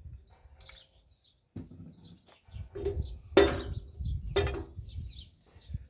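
Small birds chirping repeatedly over a low rumble, with two sharp loud knocks about a second apart past the middle.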